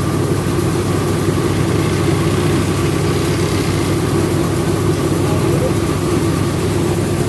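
Rice milling machine running steadily under load, a continuous loud mechanical drone with a steady hum.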